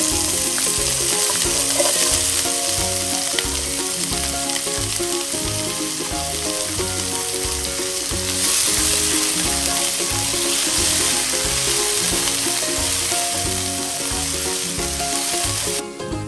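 Sliced bell peppers and green peas sizzling in a hot wok, louder from about eight seconds in, with background music and a steady beat underneath. The sizzle cuts off suddenly near the end.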